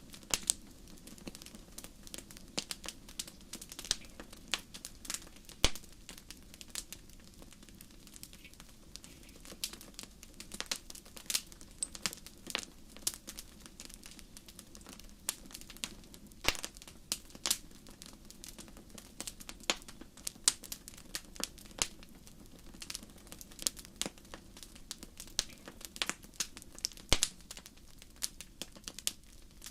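Fire crackling: irregular sharp pops and snaps, several a second, over a low steady rush.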